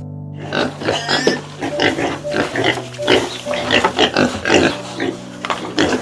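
Pig calls, a rapid string of short, harsh grunts and squeals, over background music with steady held notes.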